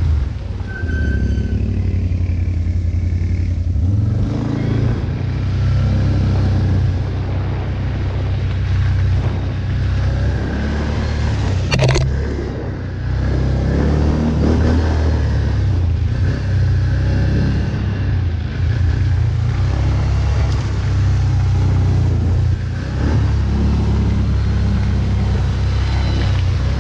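ATV (quad bike) engine running under varying load, its revs rising and falling several times. There is one sharp knock about halfway through.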